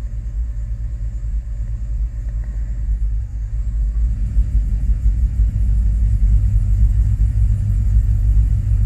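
2005 Chevrolet Tahoe's 5.3-litre V8 running rough with a low, choppy rumble that grows louder about halfway through; it is misfiring evenly on all cylinders.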